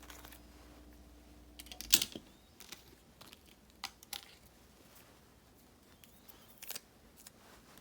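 Scattered light clicks and taps of stationery and paper being handled on a desk during journal decorating, the loudest a sharp click about two seconds in, when a faint steady hum stops.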